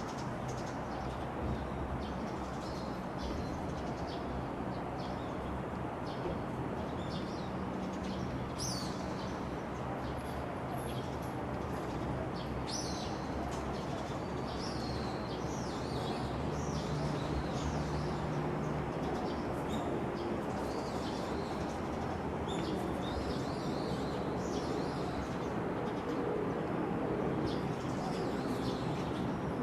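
Several small birds chirping and twittering in short scattered calls over a steady background rumble of outdoor noise.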